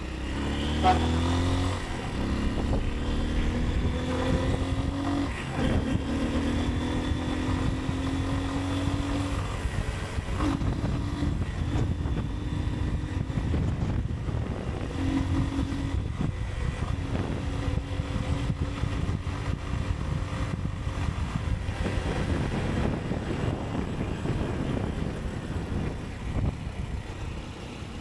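Motorcycle engine pulling away and accelerating, its pitch rising and dropping back at each upshift through the first half, then running at a steadier speed, over wind and road rumble.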